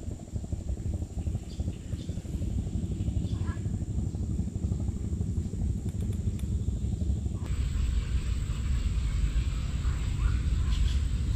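Low, uneven rumble of wind buffeting the microphone, with a few faint chirps over it. About seven and a half seconds in, the noise turns brighter and hissier.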